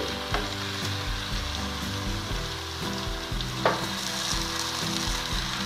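Bottle gourd leaves and vegetables sizzling as they fry in a pan while a wooden spatula slowly stirs them, with one sharp tap about three and a half seconds in.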